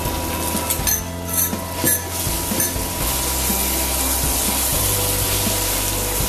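Raw mango pieces frying in oil in a non-stick pan, sizzling steadily while a spatula stirs them, with a few knocks and scrapes of the spatula against the pan between one and three seconds in. A faint steady hum runs underneath.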